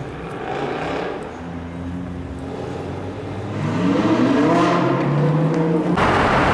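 Performance car engine with a loud aftermarket exhaust revving, its pitch climbing and getting louder about halfway through, then held high. Near the end it gives way suddenly to a loud rushing noise.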